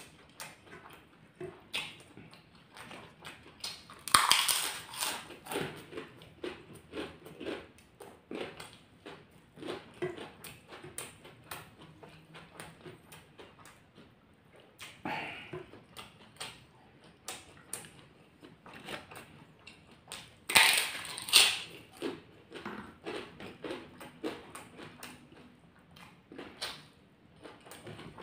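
Close-miked eating sounds: wet chewing, lip smacks and mouth clicks while eating rice and chili sambal by hand, with two louder bursts about four and twenty seconds in.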